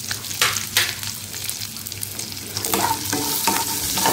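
Chopped onions, whole spices and green chillies sizzling in hot oil in a nonstick kadai, stirred with a wooden spatula. There are a couple of scraping strokes about half a second in, then a run of repeated strokes starting near the end.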